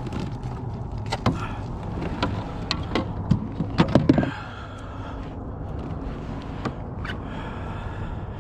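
Scattered knocks and clicks of a bass and gear being handled on a kayak, busiest about three to four seconds in, then only a steady low background noise.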